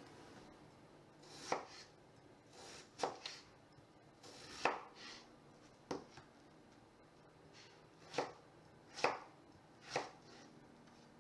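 A kitchen knife cutting vegetables on a cutting board, with single slow chops about every second or so, seven in all.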